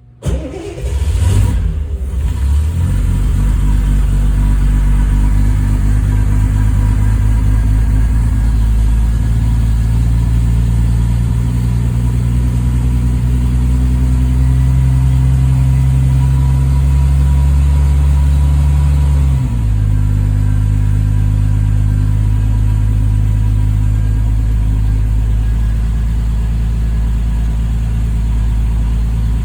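Triumph TR6's 2.5-litre straight-six starting from cold: the starter turns it over briefly, it catches within a second or two and settles into a steady, raised cold idle. About two-thirds of the way through, the engine speed drops suddenly to a lower, steady idle.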